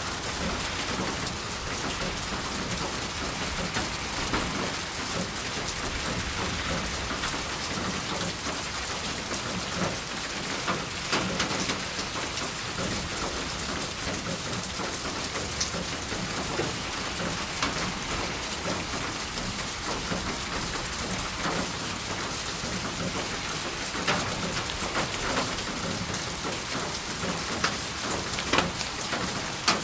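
Steady rain falling, an even hiss with scattered sharp clicks of individual drops striking a surface.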